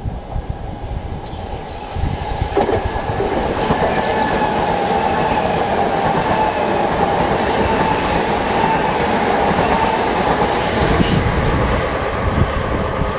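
Thameslink electric multiple-unit train running past, getting louder about two seconds in, with a steady high whine over the rumble of the wheels on the track.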